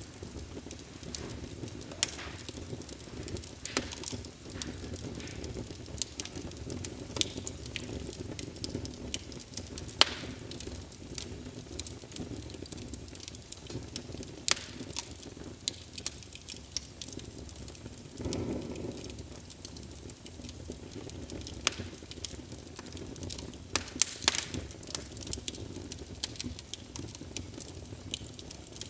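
Wood fire burning in a fireplace: a steady low rumble of flames with scattered sharp crackles and pops, and a brief fuller whoosh about two-thirds of the way through.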